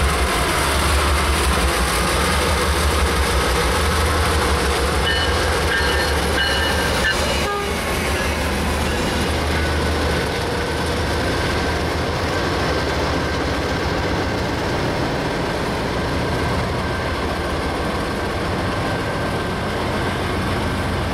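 Freight train pulled by two CSX diesel locomotives rolling past, their engines rumbling low, then the freight cars clattering over the rails with wheel noise. A brief high tone sounds about six seconds in.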